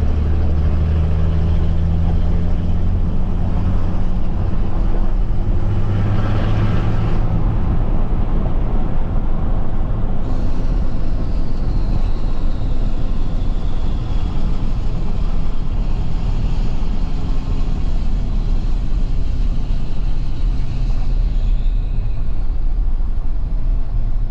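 Cummins diesel pickup truck driving, its engine running steadily, with the engine note rising and falling slowly as speed changes.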